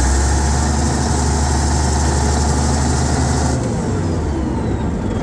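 Fiat-Allis HD21B crawler dozer's diesel engine running at raised revs, then easing back toward idle about three and a half seconds in.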